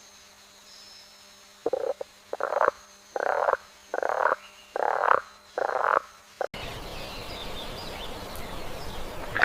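An animal calling six times in a steady series, about one and a half calls a second, each call short and croaking.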